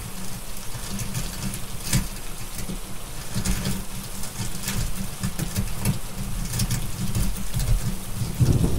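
Rain falling with a crackling fireplace over a steady low rumble, with sharp crackle pops every second or so, the loudest about two seconds in. Thunder swells in near the end.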